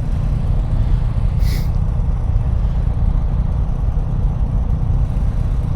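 Steady wind rush over the microphone mixed with engine and road drone from a stock 2024 Harley-Davidson CVO ST cruising at a steady throttle.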